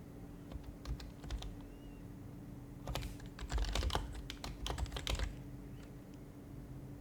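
Typing on an HHKB Professional HYBRID Type-S keyboard with its silenced Topre switches: a few scattered keystrokes, then a quick run of typing from about three seconds in to just past five seconds, after which the keys stop.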